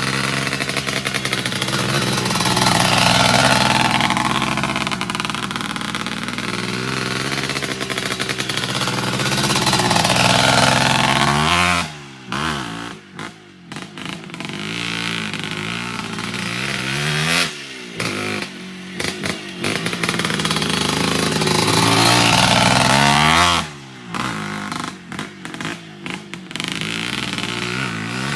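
Motorcycle engine running and revving, its pitch climbing and falling several times, with brief sharp drops in loudness between revs in the second half.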